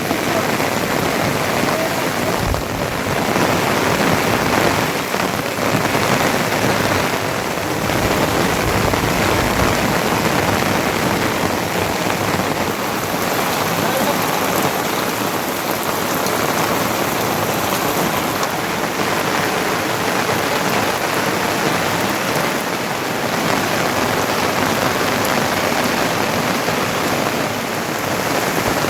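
Heavy rain falling steadily, a dense even hiss, with a couple of brief low bumps about two and a half and eight seconds in.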